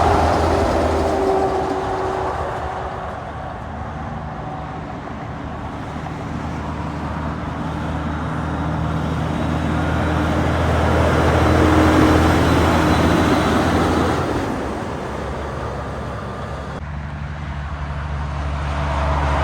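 Trucks driving past on a highway: a low engine drone with tyre noise that swells as one passes loudest about twelve seconds in and fades, with another coming on near the end.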